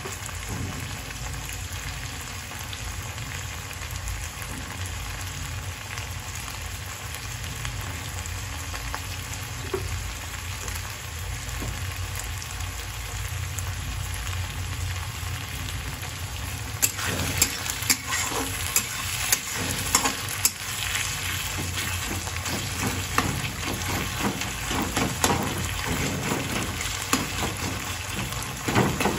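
Sliced onions and tomatoes sizzling in oil in a kadhai. From about halfway through, a metal spatula scrapes and clinks against the pan as the mixture is stirred.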